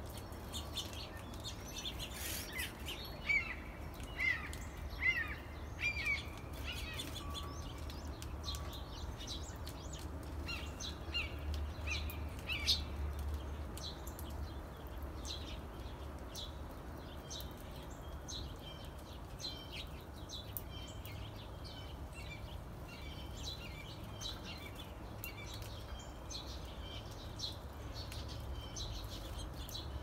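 Small birds chirping and calling, with many short rapid chirps throughout and louder downward-sliding notes near the start and again around the middle, over a steady low rumble.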